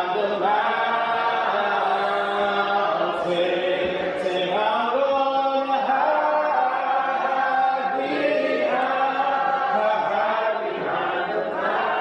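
A group of church singers singing a hymn a cappella, several voices in harmony holding long notes, with short breaks between phrases.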